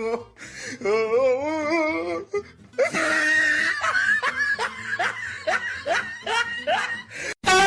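A person laughing in a run of short rising 'ha' sounds, with music behind it, and a loud thump near the end.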